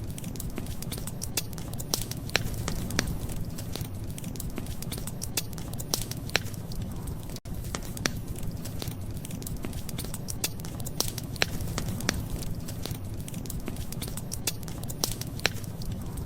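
Wood fire crackling: irregular sharp pops and snaps over a steady low rumble, with a momentary drop-out about seven seconds in.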